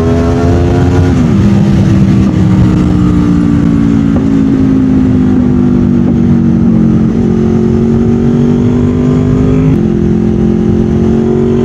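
Honda VFR800 VTEC's V4 engine running loud through a Delkevic aftermarket exhaust with Lextek headers. The revs climb, drop sharply about a second in, then hold a nearly steady drone that eases down in small steps and rises a step near the end.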